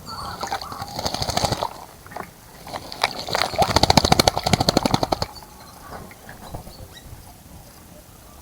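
A bird bathing in a bird bath, flicking its wings in the water in two bouts of rapid splashing, the second from about three to five seconds in.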